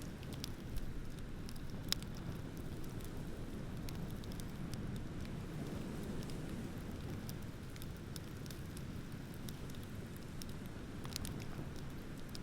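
Wood bonfire crackling with scattered sharp pops, one louder pop about two seconds in and a cluster near the end, over a steady low rush of ocean waves.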